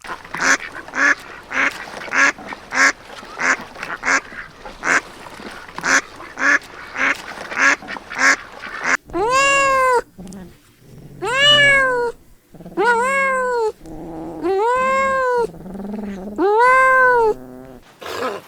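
A cat meowing five times, long meows of about a second each that rise and fall in pitch, in the second half. Before them comes a run of short, quick animal calls, about two a second.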